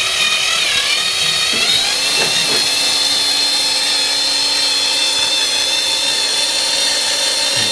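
Cordless drill turning the oil pump of a VAZ 2102 engine to prime its lubrication system, running steadily under load as the pump pushes oil through the engine. The whine dips slightly in pitch in the first second or so, then holds steady.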